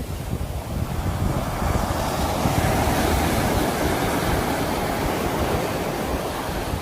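Sea waves washing onto the shore: a continuous rush of surf that swells about two seconds in and eases slightly toward the end.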